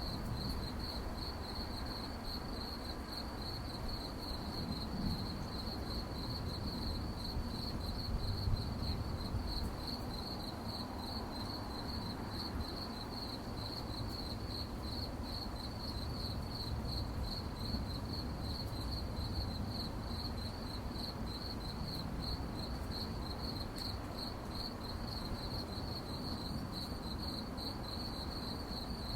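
Crickets chirping in a continuous, evenly pulsing trill at one high pitch, over a steady low background rumble.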